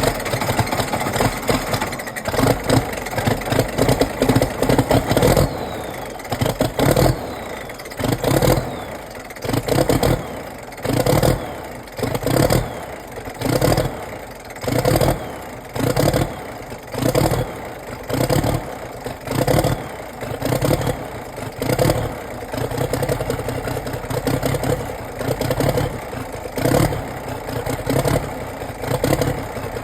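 Case 1175 tractor's diesel engine running just after a cold start, its sound swelling and easing in a regular surge about every second and a half.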